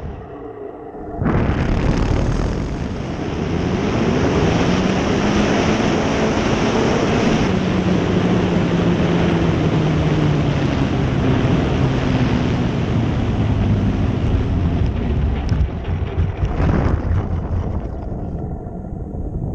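RC model SBD Dauntless in flight: its motor-and-propeller tone rises slightly, then slides steadily down in pitch from about four to fourteen seconds in. Heavy wind noise on the microphone runs under it throughout.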